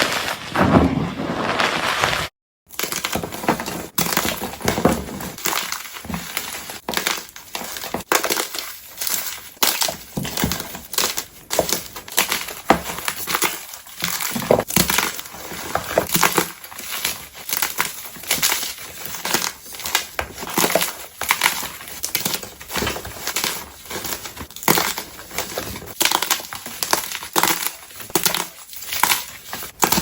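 Blocks of gym chalk being crushed by hand, a fast, continuous run of dry crunches and crumbles. A moment of silence about two seconds in breaks it, then the crunching goes on.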